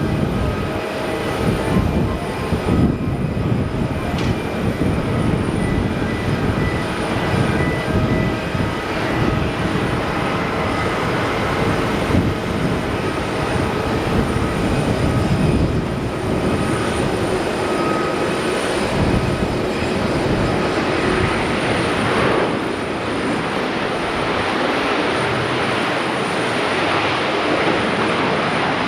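Jet airliner engines running: a steady, loud rumble with a few faint whining tones above it.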